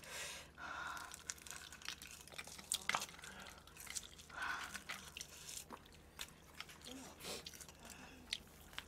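Close-miked biting and chewing of a seaweed-wrapped mouthful of seasoned chicken, with soft crunches and small wet mouth clicks.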